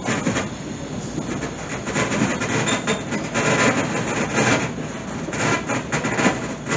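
Passenger train rolling along the track, heard from inside or beside the coach: a steady rumble of wheels on rail with uneven clacks and rattles.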